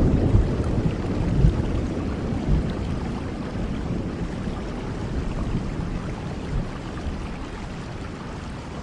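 Steady rain with a low roll of thunder dying away over the first second or two, leaving an even hiss of rainfall that slowly grows quieter.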